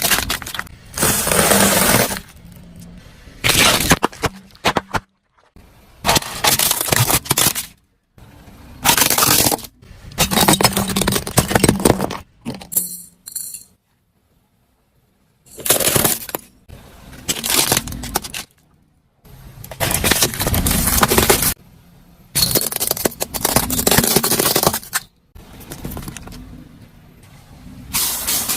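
A series of about a dozen short crunching, cracking and breaking sounds, each a second or two long and cut off abruptly, as objects are crushed one after another.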